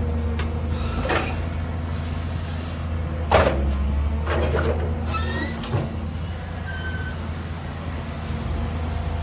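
Large diesel engine running steadily, with several sharp metal clanks and a few short squeaks over it.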